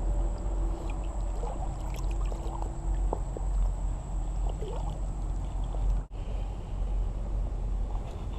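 Creek water moving, with a low wind rumble on the microphone. The sound drops out briefly about six seconds in.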